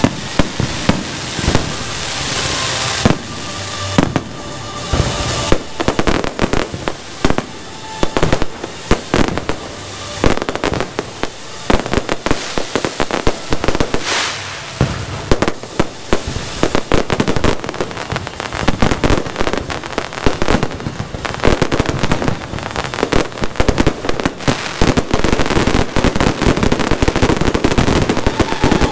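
Aerial fireworks shells bursting: sharp bangs and crackles, spaced out at first, then packed into an almost continuous barrage through the second half.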